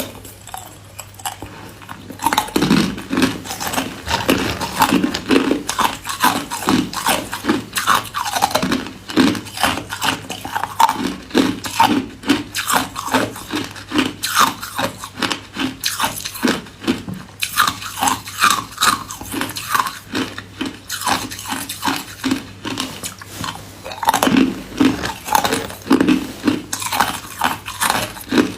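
Hard white ice being bitten and chewed in a dense run of crunches, starting about two seconds in.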